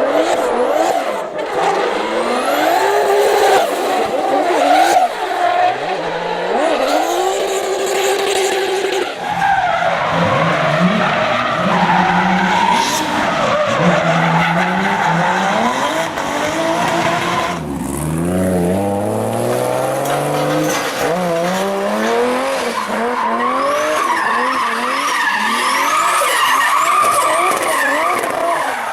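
Toyota Supra Mk4's 2JZ inline-six engine revving up and dropping back over and over while drifting, with tyres squealing and skidding. The sound changes abruptly about nine and eighteen seconds in.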